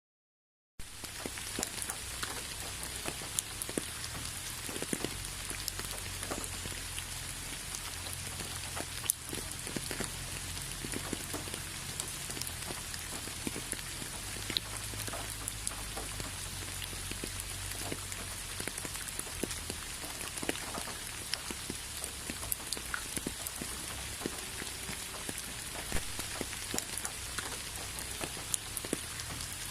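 Steady rain, an even hiss with many separate drops ticking sharply through it. It starts abruptly out of dead silence about a second in.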